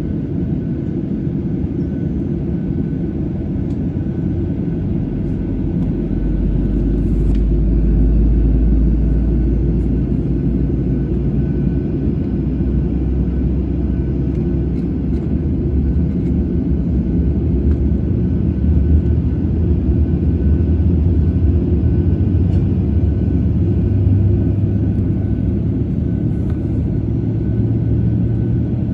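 The second CFM56 turbofan engine of a Boeing 737-800 starting, heard inside the cabin. Over a steady cabin hum, a low rumble comes in about six seconds in and slowly rises in pitch as the engine spools up.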